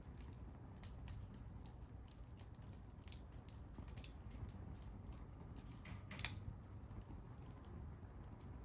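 Campfire crackling: irregular small snaps and pops over a low steady rumble, with one louder pop about six seconds in.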